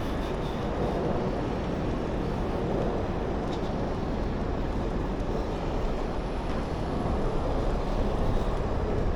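Steady vehicle noise, an even rumble and hiss with no distinct events.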